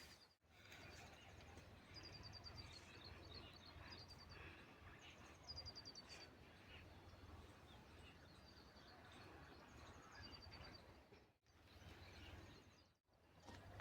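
Faint outdoor ambience with small birds chirping in short, rapid high trills, repeated every second or two, over a low steady hum.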